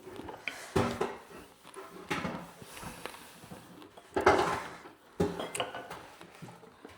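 Kitchen handling sounds during momo making: dishes and utensils knocking and clattering, with a few separate clunks, the loudest about four seconds in.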